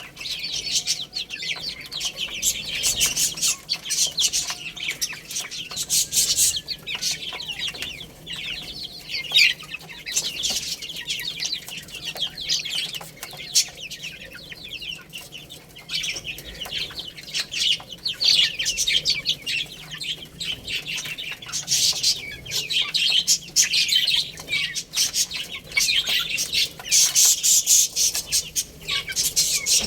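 A brood of baby chicks peeping continuously, many short, high-pitched chirps overlapping, busier in several stretches.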